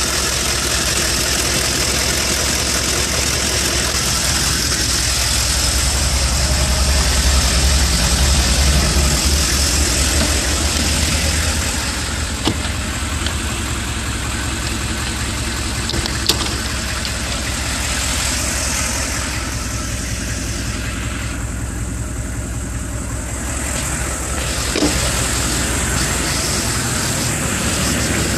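1996 Chevy 3500's 6.5L V8 turbo diesel idling steadily, running louder for several seconds in the first half, with a few brief sharp clicks later on.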